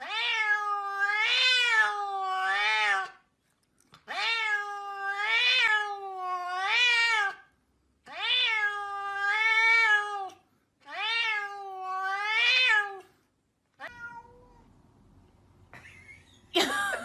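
Cat meowing in long, wavering calls, about ten of them in quick runs of two or three. A short one follows a little later.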